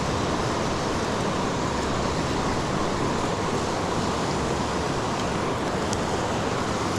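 Steady rush of creek water flowing over rocks, an even unbroken hiss.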